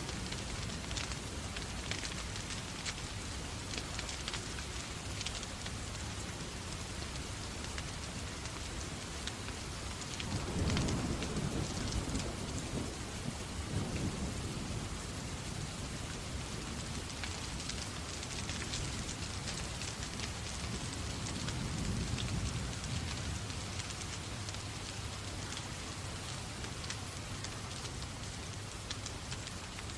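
Steady rain mixed with a crackling fire, with low rolls of thunder rumbling through about a third of the way in and again about two-thirds through.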